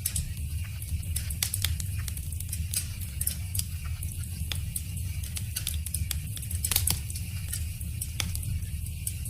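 Wood fire crackling: irregular sharp snaps and pops over a steady low rumble and hiss.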